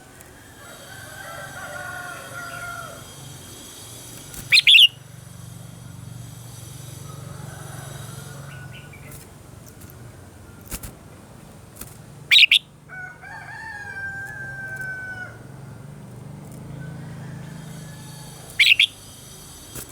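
Red-whiskered bulbul singing: three short, loud, quick phrases, about six to seven seconds apart.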